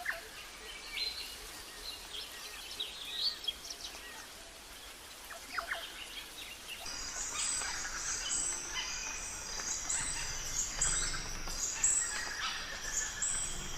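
Wild birds calling with scattered short chirps and gliding notes. About halfway through, a high, pulsing buzz joins and repeats steadily, about once a second.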